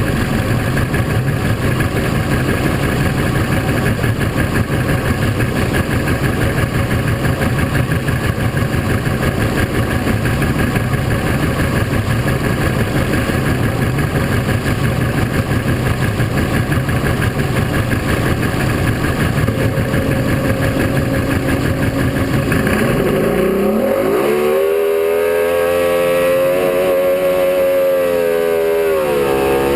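Performance boat's engine running under a rough rush of wind and water, then with about seven seconds left the throttle opens: the engine note climbs steeply and holds high, wavering slightly.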